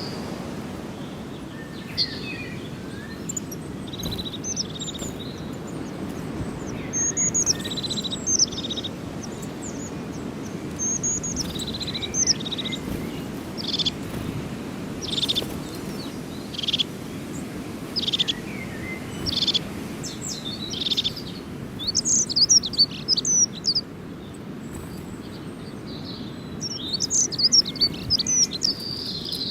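Small birds chirping and calling in short, repeated notes, busier toward the end, over a steady low background hum.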